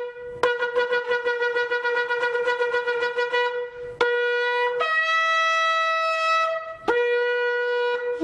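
Yemenite shofar blown: first a fast, fluttering run of short staccato blasts for about four seconds, then long held notes that jump up to a higher pitch and drop back down after about two seconds.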